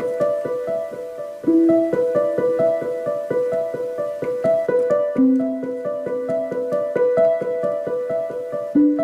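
Solo piano playing a gentle instrumental piece: a quick repeating figure of notes, about three to four a second, over a deeper note struck three times and left to ring.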